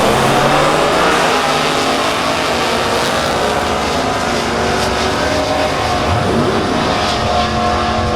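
Drag-racing truck engine running loud, its pitch falling over the first second, then holding steadier.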